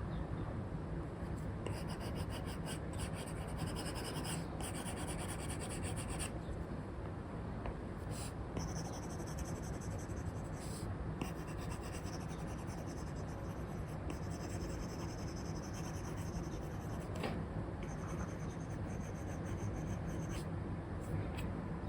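Apple Pencil nib scratching across a paper-like screen film on an iPad as it sketches, in runs of strokes with short pauses, over a steady low background hiss.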